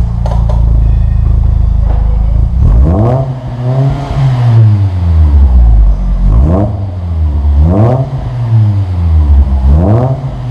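Volkswagen Gol 1.6 four-cylinder engine heard through an aftermarket header, cat-back system and Borla muffler, idling steadily at first. About three seconds in it is revved sharply, then blipped again several more times, each rev falling back toward idle.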